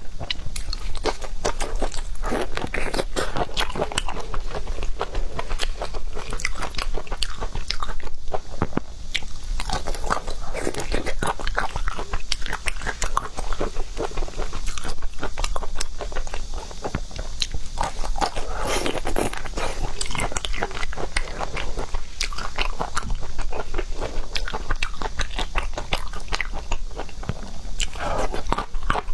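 Close-miked mukbang eating of seafood: steady, wet chewing and biting with dense crunching clicks, going on without a break.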